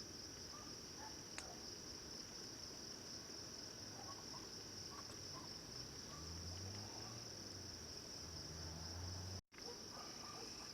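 Crickets chirping in a steady, high-pitched chorus, broken off for a moment about nine and a half seconds in.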